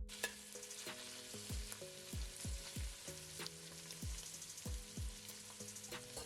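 Sliced onions sizzling as they fry in oil and ghee in a pan. Background music with held chords and a regular low drum beat, about two beats a second, plays over it.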